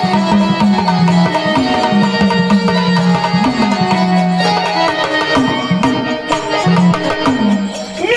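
Instrumental interlude of Marathi devotional folk music: hand drums playing a steady rhythm under a melodic instrument that holds and slides between notes.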